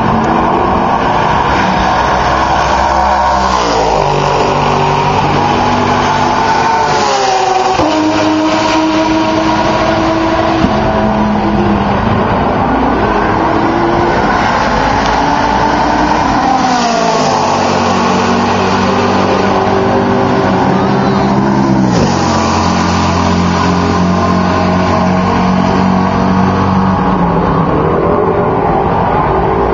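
Sports-prototype and GT race cars going past at full throttle one after another, engines at high revs, each car's pitch dropping sharply as it passes, about four times. The engine sound carries back off the trees and walls.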